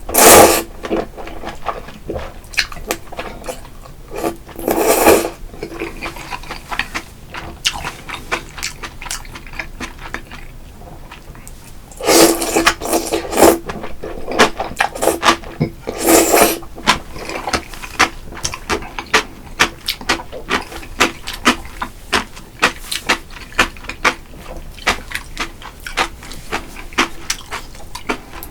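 Close-up eating sounds of spicy mussel jjamppong: several loud slurps of noodles and broth, about five seconds in and again around twelve and sixteen seconds, with wet chewing and smacking between them and steady chewing with many short clicks after.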